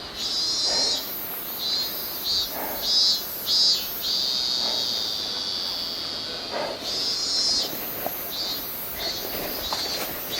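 Insects calling in short, high, pulsing trills, over and over, with a few soft footsteps on the slope.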